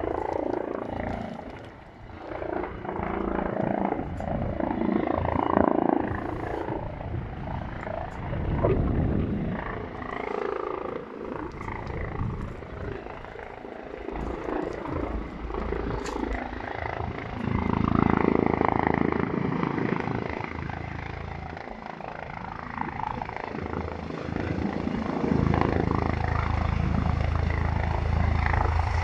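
Helicopter approaching to land: uneven rotor and engine noise that grows into a louder, steadier low drone over the last few seconds.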